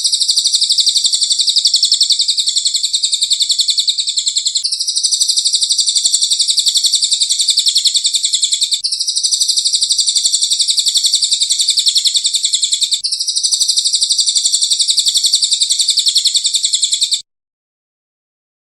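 Recorded songbird giving a very rapid, high-pitched continuous trill, the kind of 'roll' used in masteran training tracks. It comes as four near-identical stretches of about four seconds each, joined back to back like a loop, and cuts off abruptly near the end.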